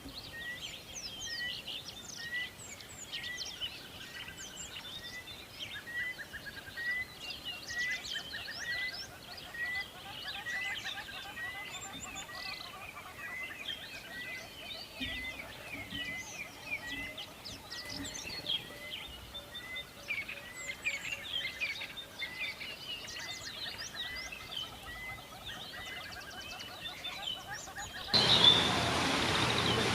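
A chorus of many birds chirping and calling over each other, with one short note repeating about twice a second. Near the end it cuts abruptly to a louder, steady hiss.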